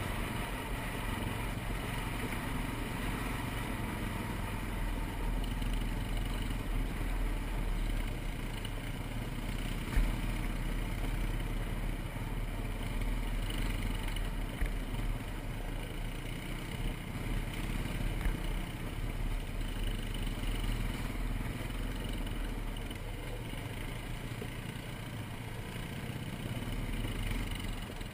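ATV (quad) engine running steadily while riding a trail, with a few sharp knocks and rattles over it, the loudest about ten seconds in.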